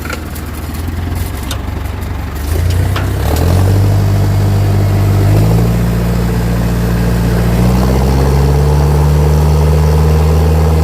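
Bulldozer's diesel engine working hard as it pulls a stuck dump truck out of mud. It revs up in steps about three seconds in, then holds high and steady under load, and drops back right at the end.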